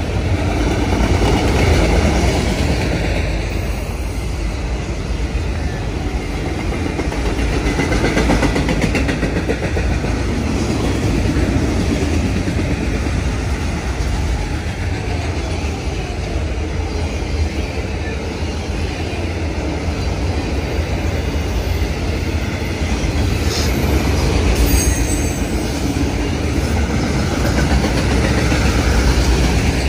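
Train rolling past: a steady rumble of wheels on the rails that swells and eases a little as it goes by.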